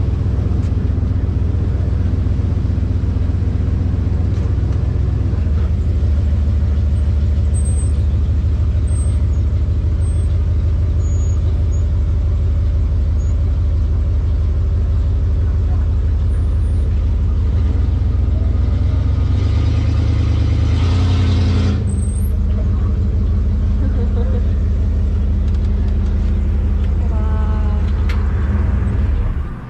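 Steady low drone of a road vehicle's engine while driving, with a brief louder hiss about twenty seconds in.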